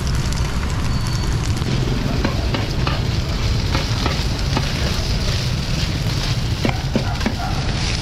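Pieces of rice-flour cake frying in lard on a large flat pan, sizzling steadily while a metal spatula and fork scrape and tap the pan as the cakes are chopped and turned, with several sharp clicks from about two seconds in.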